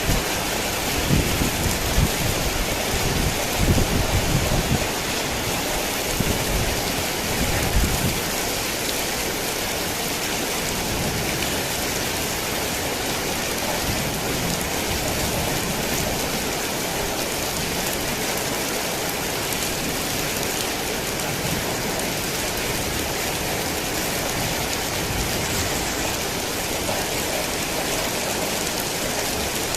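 Heavy rain falling steadily, with a low rumble of thunder during the first several seconds that dies away, leaving an even rain hiss.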